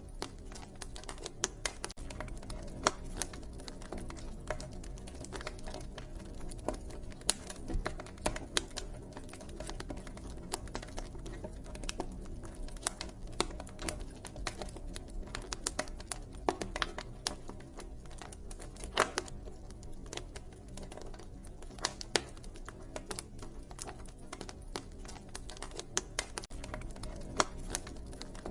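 Wood fire crackling: dense, irregular pops and snaps, some sharper and louder than the rest, over a low steady rumble.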